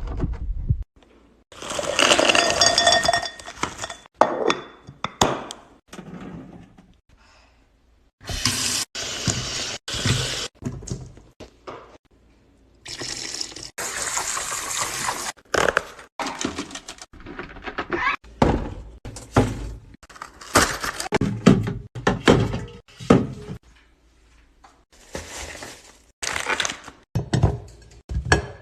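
Kitchen containers and food items being handled, with repeated clunks and clinks as jars and packages are set down and moved. Three stretches of pouring come as containers are refilled.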